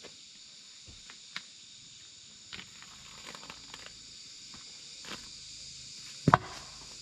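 Steady high chirring of insects with scattered light taps and knocks, and two sharp knocks in quick succession about six seconds in.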